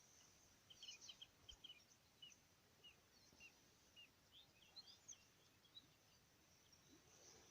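Faint small birds chirping over near silence: a string of short, high chirps, a couple each second, through most of the stretch.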